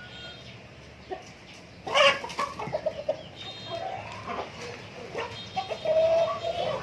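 Native chickens clucking and calling in short bursts, with a loud sudden squawk about two seconds in and a longer drawn-out call near the end.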